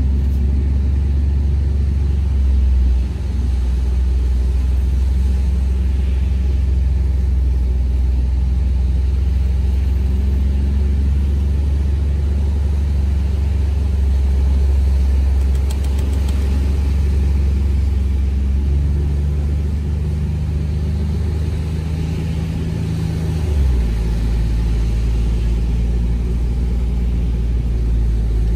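Ford Bronco Badlands running under load while driving in loose sand, a deep steady engine drone. Its pitch steps a few seconds in, about two-thirds through and again soon after.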